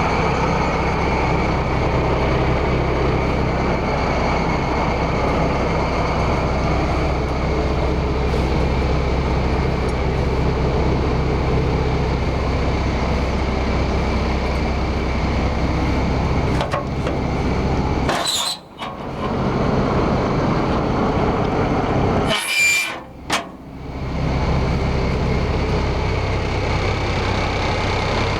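A 1979 Ford L9000 tri-axle grain truck's engine running steadily. Two brief dropouts come about two-thirds of the way through.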